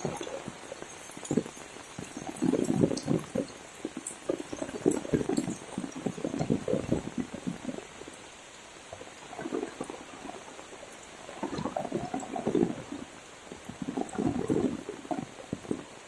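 Heavy rain falling steadily, with repeated bursts of water splashing, each a second or so long, several times.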